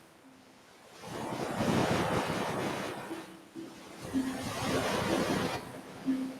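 Ocean waves washing up a beach. After a quiet first second a wave rushes in and breaks, and a second wash swells about four seconds in, then fades near the end.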